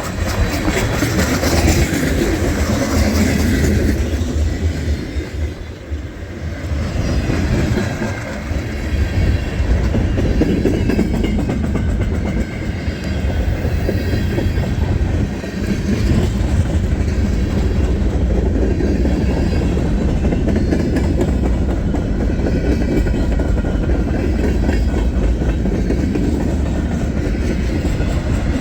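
Freight train of tank cars rolling past as it picks up speed: a steady, loud rumble of wheels on the rails.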